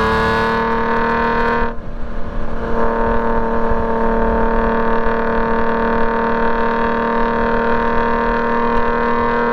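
Straight-piped BMW E46 M3's inline-six (S54) running under load on track. Its note climbs slowly, dips briefly about two seconds in, then holds nearly steady and creeps up again near the end.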